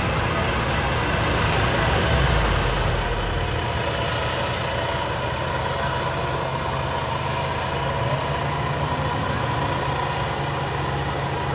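Engines of off-road 4x4 vehicles running steadily.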